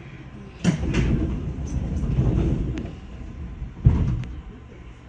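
Train sounds: a sudden sliding, rumbling noise that lasts about two seconds, then a sharp knock near four seconds in.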